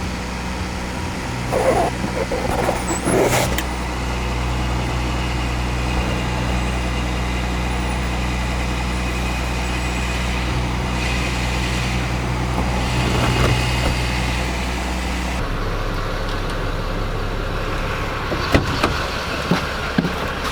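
A van's engine idling, a steady low hum heard from inside the cabin, with a few clunks early on. The hum changes about three-quarters of the way through.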